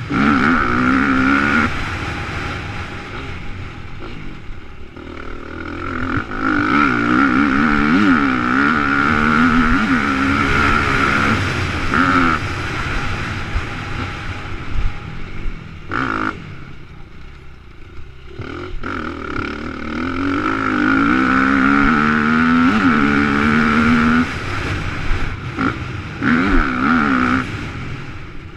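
Motocross dirt bike engine revving up and falling back over and over as it is ridden hard around a track, with a few quieter stretches where the throttle is closed, one lasting a few seconds about halfway through.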